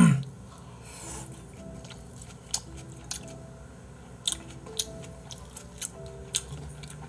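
Close-miked chewing and sharp wet mouth clicks of a person eating raw beef tartare (yukhoe) with rice, over soft piano-like background music. A short falling vocal "ah" comes right at the start and is the loudest sound.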